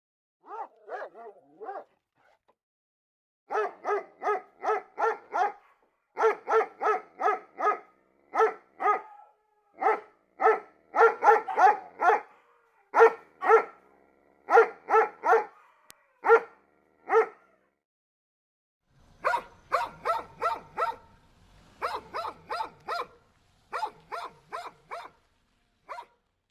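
A dog barking in quick runs of short, sharp barks, about three or four a second, broken by short pauses.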